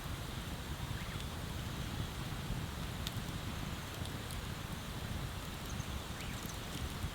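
Wood bonfire crackling, with a few scattered sharp pops (the clearest about three seconds in) over a steady low rushing background.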